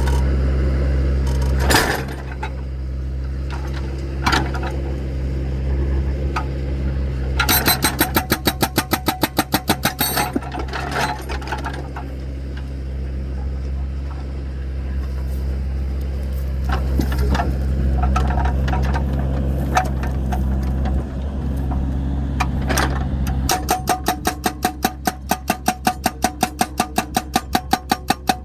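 Excavator engine running steadily while splitting firewood, with two stretches of rapid, even clattering at about five beats a second, the second starting near the end, and a few single knocks between.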